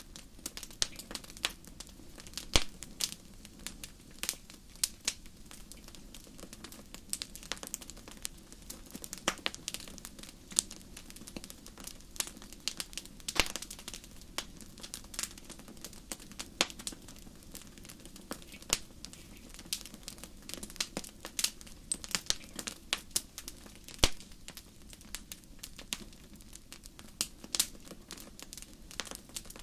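Wood fire crackling in a fireplace: irregular sharp pops and snaps, a few of them much louder, over a steady low rumble of the flames.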